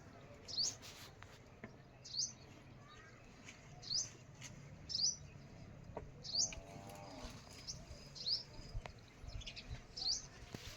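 Short, high-pitched chirps from a small animal, repeated about every second or two. A brief lower call sounds once, about seven seconds in.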